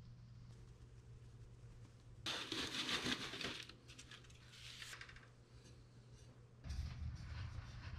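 Bursts of rustling, scraping noise, about two seconds in, again around four and a half seconds, and louder near the end, over a faint steady low hum.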